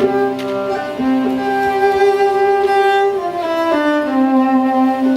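Fiddle playing a slow instrumental passage between verses of a folk song, held bowed notes moving to a new pitch a few times.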